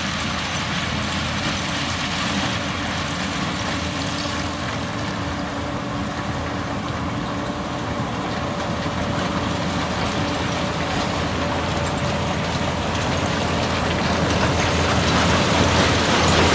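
Heavy diesel engine of earthmoving machinery running steadily, growing louder and harsher over the last few seconds.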